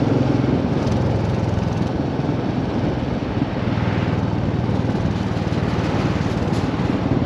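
Royal Enfield motorcycle engine running at a steady pace while riding, with a continuous hiss of wind and road noise.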